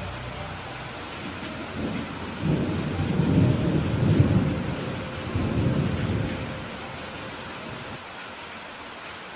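Steady rain falling, with a roll of thunder that rumbles in about two seconds in and dies away a few seconds later.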